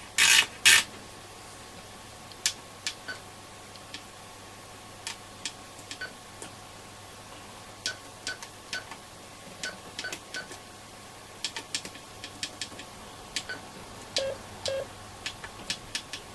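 Keypad buttons on an AOR AR-2002 scanner receiver pressed one after another, giving small irregular clicks over a faint steady hum, with a few louder knocks in the first second and two short beeps near the end. The keys are being tested after a repair, and the 2 key is not registering.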